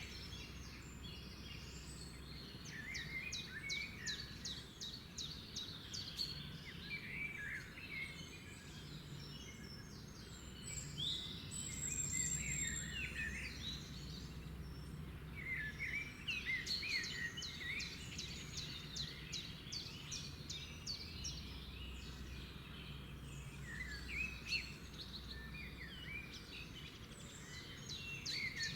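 Several songbirds singing and chirping, with bursts of quick repeated notes and short calls overlapping throughout, over a steady low background noise.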